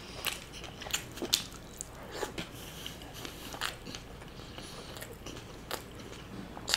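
Close-miked chewing of a kebab roll of rumali roti, seekh kebab and onion: irregular mouth clicks, a few louder than the rest.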